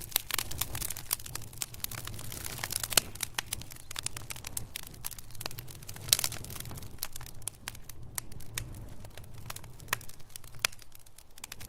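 Wood fire crackling in a fireplace: irregular sharp snaps and pops, a few louder than the rest, over a low steady rumble of burning.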